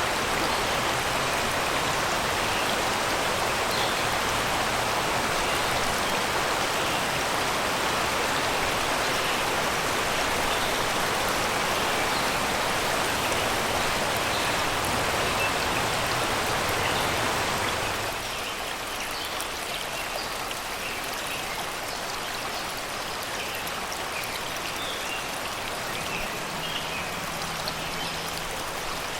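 Shallow river water rushing over rocks, a steady wash. About eighteen seconds in it drops abruptly to a quieter flow, with faint bird chirps over it.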